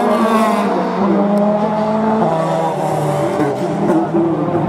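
Hillclimb racing car passing at speed: its engine note falls as it goes by, then steps down twice through gear changes as it pulls away up the course.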